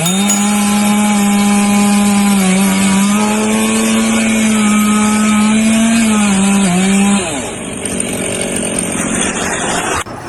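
A small engine running at high revs with a steady, high buzz that wavers slightly a couple of times. It revs down and stops about seven seconds in, and a hiss carries on until an abrupt cut near the end.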